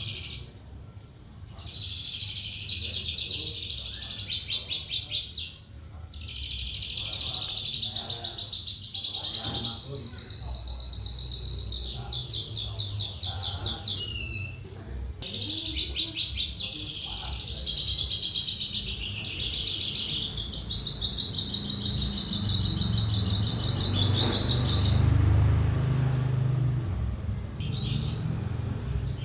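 Javan bush lark (sonca) singing a long, continuous song of high, fast trills and rattling phrases, broken by a few short pauses.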